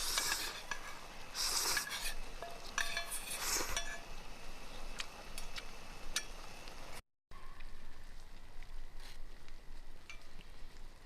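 A utensil stirring and scraping food in a pan, in three short bursts with light clinks, over a faint sizzle. About seven seconds in the sound cuts off briefly and gives way to a quieter steady hiss with scattered ticks.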